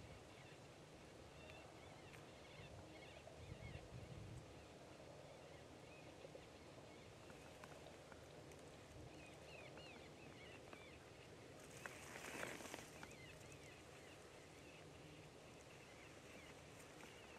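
Near silence: faint, scattered bird chirps, with a brief rustle about twelve seconds in.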